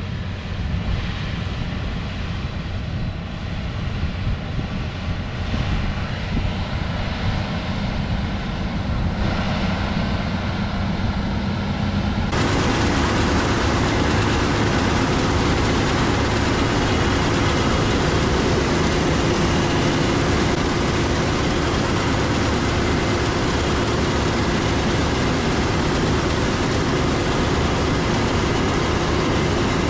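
Large diesel harvest machinery running steadily under load. About twelve seconds in, the sound changes abruptly to a louder, hissier machine noise with a steady hum.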